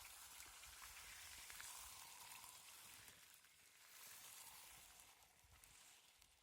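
Food sizzling in hot fat in a pan, a steady hiss with fine crackles that eases off near the end.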